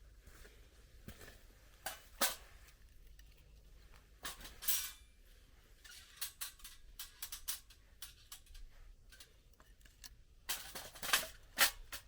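Campfire wood crackling: irregular sharp pops and snaps, with louder pops about two seconds in and a cluster near the end.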